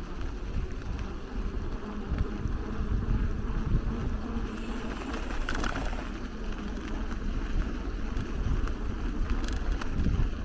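Wind rumbling on the microphone of a camera riding on a moving bicycle, a steady low buffeting, with road noise beneath.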